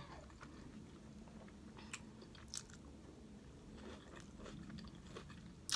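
Quiet chewing of a bite of a Whopper burger with the mouth closed, with a few faint wet mouth clicks.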